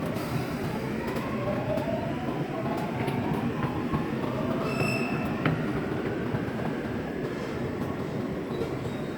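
Subway train running, heard from inside the car: a steady rumble of the wheels on the track with a whine that rises slowly in pitch, and a brief high squeal about five seconds in.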